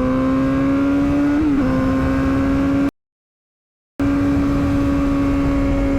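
Yamaha R6 inline-four engine running steadily at high revs under way, its pitch creeping slowly upward with a brief wobble about a second and a half in, over wind noise. The sound cuts out completely for about a second in the middle, then returns at the same steady pitch.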